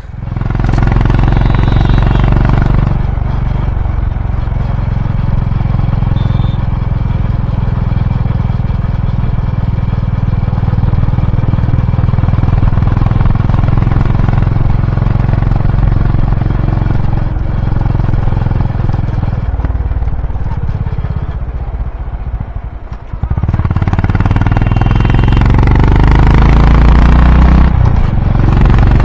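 Honda H'ness CB350's single-cylinder engine running through its exhaust under way. The throttle eases off about two-thirds of the way through, then opens up again and the engine note climbs.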